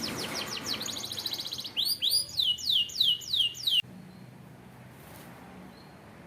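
Domestic canary singing: a fast trill of rapid falling notes, then slower, louder swooping notes about three or four a second, cutting off suddenly a little under four seconds in and leaving a faint low hum.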